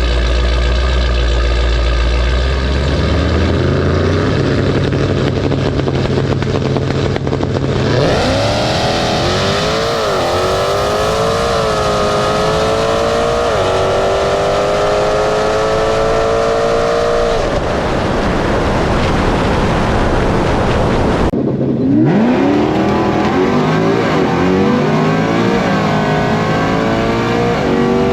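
Supercharged Hellcat V8 drag car at low revs, then launching at full throttle about 8 s in and pulling hard through the gears, the pitch climbing and dropping back at each shift. After a break about 21 s in, another hard full-throttle acceleration climbs through the gears.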